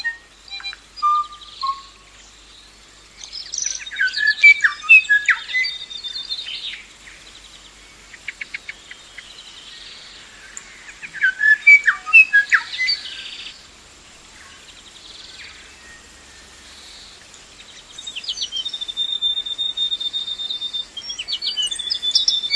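Birds singing and calling: bursts of quick chirps and whistled notes, with a steady high trill held for a few seconds near the end.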